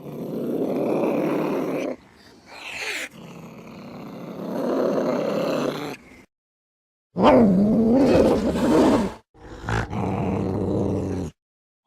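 Angry cat growling and yowling in a string of short, separate clips with silent gaps between them. The longest and loudest call comes about seven seconds in, a yowl that wavers up and down in pitch.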